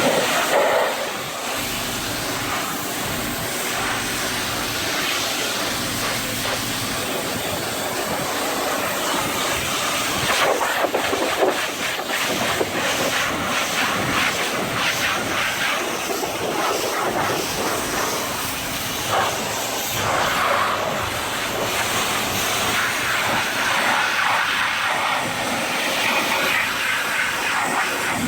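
High-pressure washer spray hitting a truck's bodywork, a steady loud hiss, while the foam is rinsed off from the bottom up.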